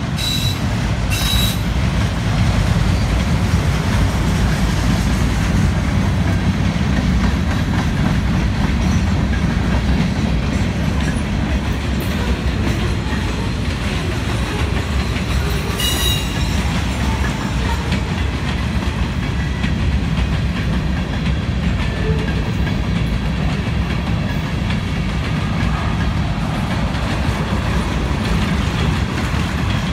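Freight cars of a Union Pacific mixed freight train rolling past on the rails: a steady, low-heavy noise of wheels on track, with a few brief sharp clicks near the start and about halfway through.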